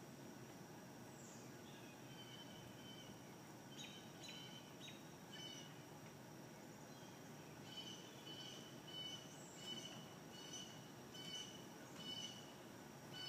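Faint backyard ambience with a bird chirping: a few scattered calls, then a short chirp repeated about every second through the second half.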